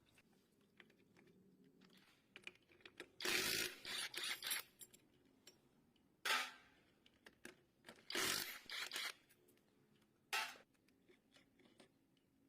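Hand tools and engine parts being handled during disassembly: a few short scraping, rattling bursts, each under about a second and a half, with small clicks and taps between them.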